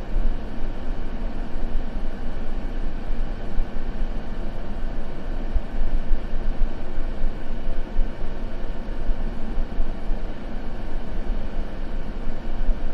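Steady, unchanging white noise ambience, deep and heavy in the bass, with no crackle or other events.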